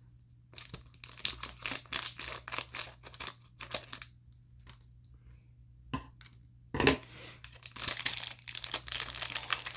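Plastic packaging being torn open and crinkled by hand, in dense crackling spells. There is a quieter pause in the middle, broken by a single click about six seconds in.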